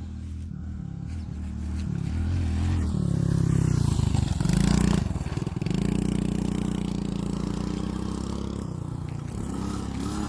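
Dirt bike engine running as the bike approaches, getting louder until it passes close by about four to five seconds in, then fading as it rides away.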